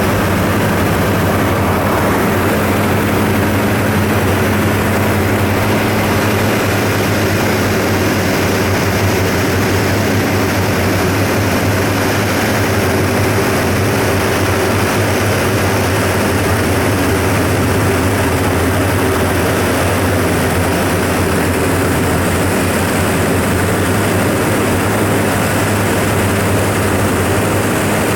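Diamond DA42 Twin Star's engines and propellers droning steadily in the cockpit, an even rush of noise with a constant low hum and no change in pitch.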